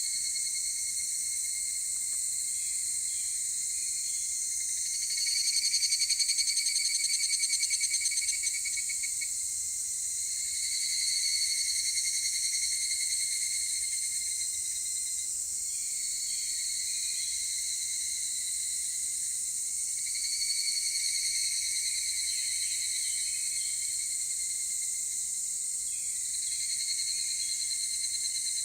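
Higurashi evening cicadas (Tanna japonensis) calling: repeated phrases of a rapidly pulsing trill, about five in all, the loudest about five to nine seconds in. A steady high-pitched insect drone runs beneath them.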